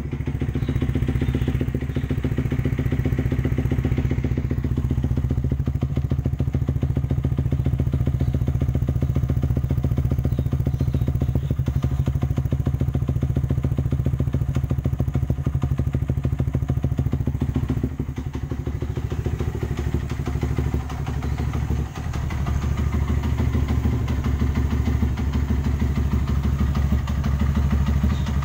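2008 Yamaha Vixion's single-cylinder four-stroke engine, converted to a carburettor, running steadily through a DBS Kws racing exhaust, with brief dips in level about two-thirds of the way through.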